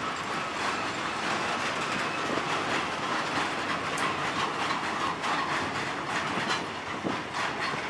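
Freight train of loaded steel-coil wagons rolling past, a steady rumble with the wheels clicking over the rail joints, the clicks coming more often in the second half.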